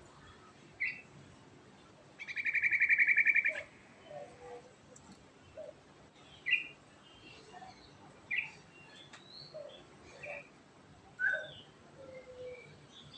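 Yellow-vented bulbul (trucukan) singing: a loud, rapid rolling trill lasting about a second and a half, starting about two seconds in, among short scattered chirps and whistled notes.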